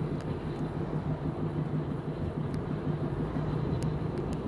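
Steady road and engine noise of a moving car heard from inside the cabin: a low, even drone with a hum, and a few faint ticks.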